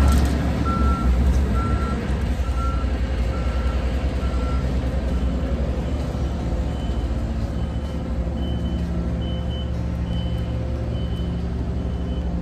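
Reverse-warning beepers on road-paving machinery beeping at an even pace over a steady low engine rumble. One lower-pitched alarm beeps about twice a second and stops about four and a half seconds in. A higher-pitched alarm starts a couple of seconds later and keeps beeping.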